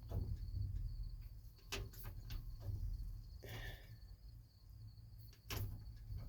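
Manual gear shift lever of a dump truck being shoved through the gears: several separate clunks and clicks, spread out, over a steady low rumble.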